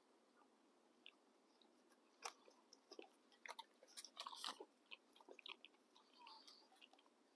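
Faint chewing of donut bites: soft smacks and small crunches, most of them in the middle.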